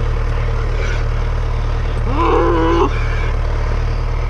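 Cattle bellowing once about two seconds in, a short call that rises at its start, over the steady low drone of an idling tractor engine.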